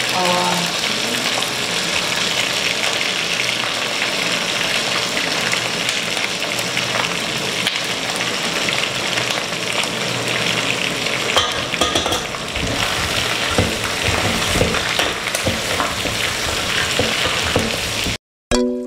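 Chicken pieces sizzling steadily as they fry in a metal pot on a gas burner. From about halfway, a wooden spoon knocks and scrapes against the pot as the chicken is stirred. Just at the end the sound cuts out briefly and plucked music begins.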